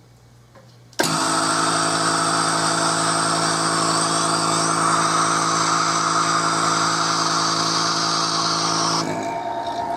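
CNC router spindle running at a steady pitch, cutting in suddenly about a second in and dropping to a quieter, different tone near the end.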